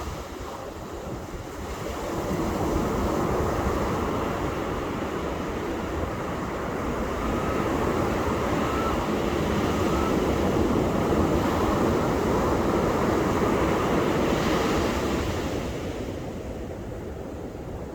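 Ocean surf on a beach: waves breaking and washing up the sand as a continuous rush, swelling about two seconds in and easing off near the end.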